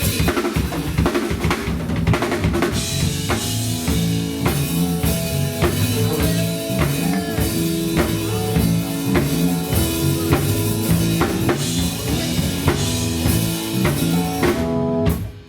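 Live band music led by a drum kit, with kick, snare and rim shots keeping a steady beat over held bass notes. It drops out briefly near the end.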